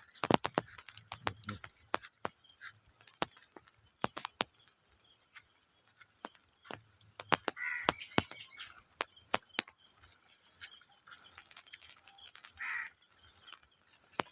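A steady, high-pitched chorus of insects, pulsing more strongly in the second half, with many sharp clicks scattered through it.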